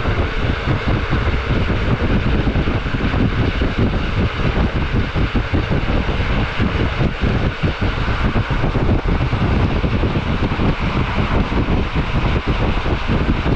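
Rhaetian Railway metre-gauge train running at speed: a steady rumble and rush of running noise, with wind buffeting the microphone.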